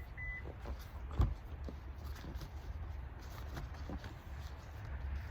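Footsteps crunching in snow, irregular steps with one louder thump about a second in, over a steady low rumble of wind on the microphone.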